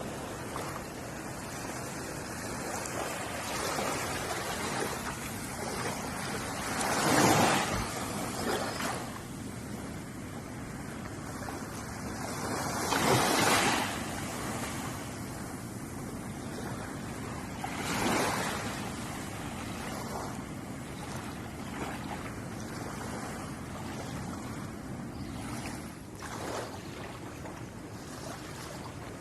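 Ocean waves washing onto a shore: a steady hiss of surf, with waves swelling and breaking every five or six seconds, three of them louder than the rest.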